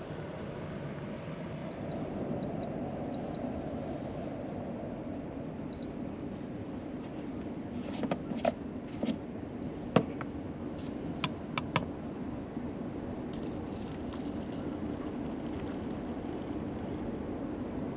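A steady low rushing hum throughout. Four short high beeps come in the first six seconds, and a cluster of sharp clicks and knocks comes around the middle.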